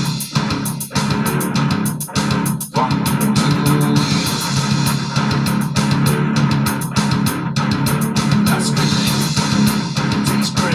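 Live rock band playing an instrumental passage: electric guitar, bass guitar and drum kit, with a steady beat and brief breaks in the playing about two and two-and-a-half seconds in.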